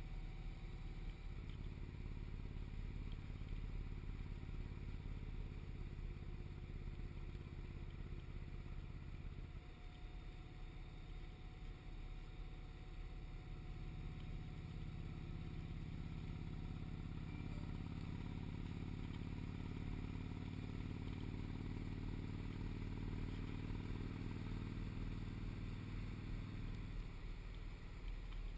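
Motorcycle engine running under way at a steady pitch. It eases off about ten seconds in, then pulls again with its pitch slowly climbing, and eases off once more near the end.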